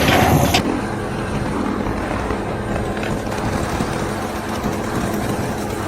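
A motor vehicle's engine running steadily, with a louder rush of noise in the first half second.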